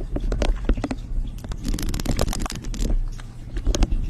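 Close-miked ASMR crackling and clicking: a run of sharp clicks and scratches, thickening into a dense crackle about halfway through, over a low steady hum.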